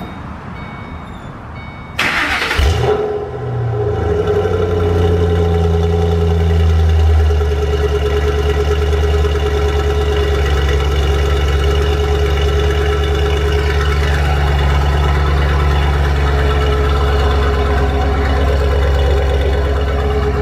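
Car engine cranked over by the starter and catching about two seconds in, then running at a raised idle that settles into a steady, lower idle after about five seconds. It is heard through an X-pipe exhaust with GT500 mufflers.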